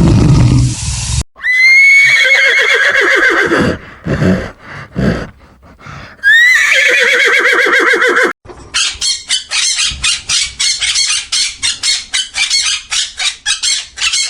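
A horse whinnying twice, each neigh a loud quavering call that sweeps up and then falls away. Before them, a deep rumbling sound cuts off about a second in. From about halfway, a rapid run of short, sharp pulses follows at about three to four a second.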